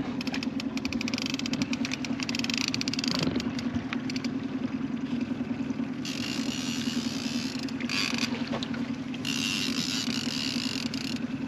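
Boat motor running steadily while trolling, a low even hum, with a high hiss and fast ticking that come and go several times.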